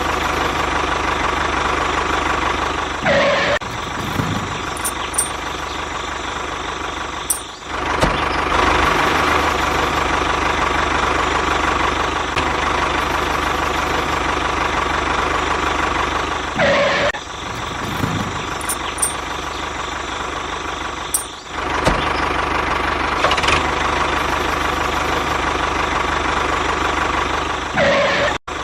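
Tractor engine sound running steadily, with brief breaks several times.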